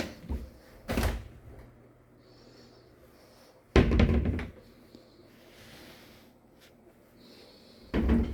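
Four sudden thumps and knocks in a small room, the loudest and longest about four seconds in.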